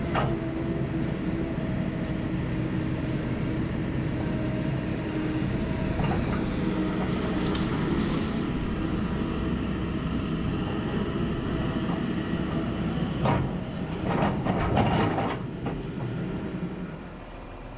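Excavator engine running under load while it digs, with metallic clanks and scraping from the bucket and tracks now and then, loudest in a burst about two-thirds of the way through.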